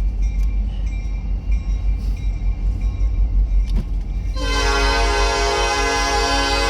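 Locomotive air horn starting about four seconds in, several notes sounding together as one held chord, over a steady low rumble.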